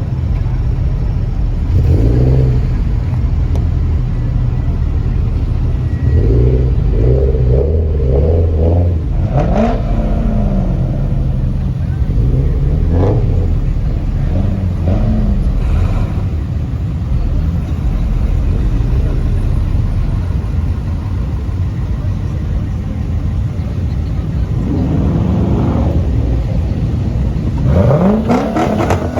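Car engines revving repeatedly over a steady low exhaust rumble, the pitch rising and falling several times.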